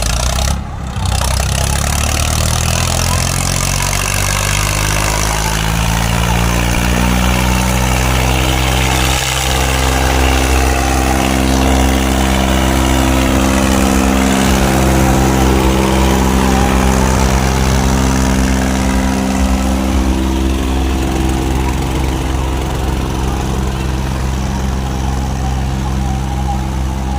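John Deere 5210 and Powertrac 455 tractors' diesel engines labouring at full load, hitched back to back in a tug-of-war. The engine note climbs over the first several seconds, then holds steady and loud.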